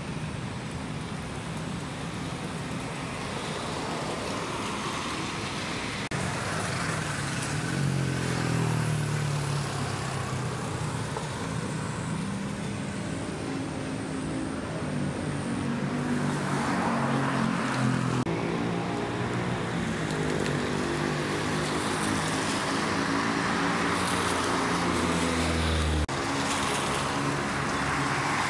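Road traffic: vehicle engines running and passing, with the engine hum rising and falling over a steady wash of tyre and road noise. The sound changes abruptly several times.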